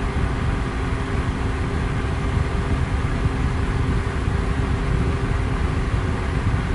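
Electric fan running steadily: an even rushing hiss heavy in the low end, with a faint motor hum.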